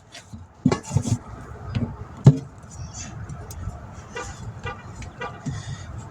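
Sharp metal clanks and knocks from mounting a tire onto a wheel rim with a tire-changer, a few close together in the first second and the loudest about two seconds in, then lighter ticks over a low outdoor rumble.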